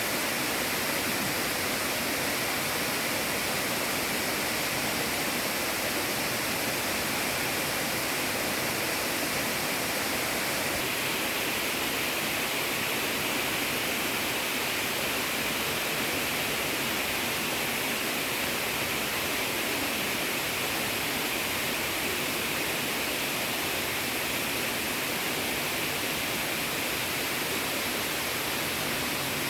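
Waterfall: water pouring and splashing in a steady, unbroken rush, strongest in the hissing upper range.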